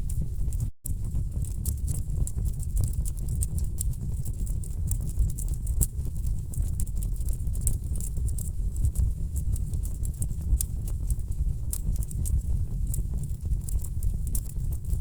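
Wood fire burning in a fireplace: a steady low rumble of burning logs with frequent sharp, irregular crackles and pops. The sound drops out for a split second about a second in.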